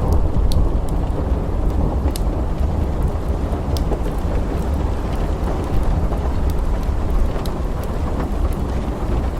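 Steady rain over a continuous low rumble of thunder, with a few sharp, scattered crackles from a wood fire.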